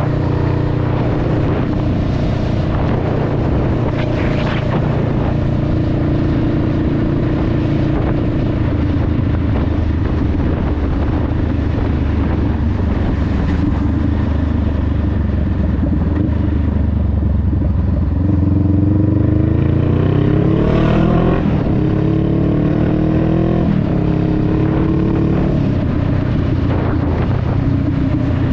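Honda Rebel 500's parallel-twin engine running at a steady cruise under way. About two-thirds of the way in it accelerates with rising pitch, drops in pitch at an upshift, climbs again briefly and settles back to a steady cruise.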